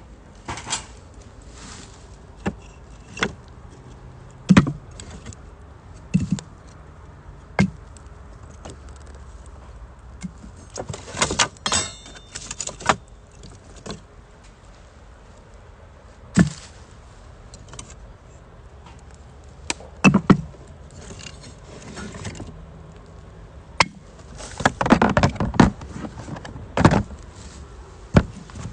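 Camp cookware and utensils being handled: scattered sharp metallic clinks and knocks, with two busier flurries of clattering about eleven seconds in and again near the end.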